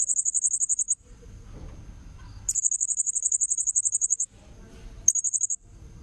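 Blue-crowned hanging parrot (serindit) giving shrill, very high-pitched rapid trills in three bursts: one at the start lasting about a second, a longer one of nearly two seconds in the middle, and a short one near the end.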